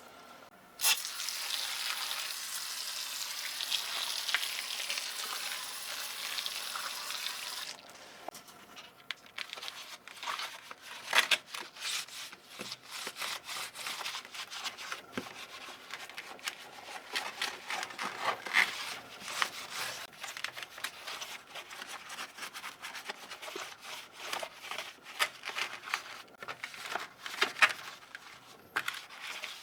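Keyboard cleaning sounds: a steady hiss that starts and stops abruptly, lasting about seven seconds, then scrubbing and rubbing with many small clicks and scrapes.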